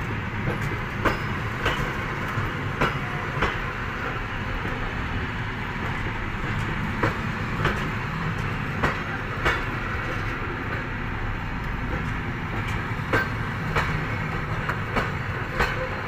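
Passenger train rolling slowly past: a steady rumble with its wheels clicking over rail joints, the clicks often coming in pairs.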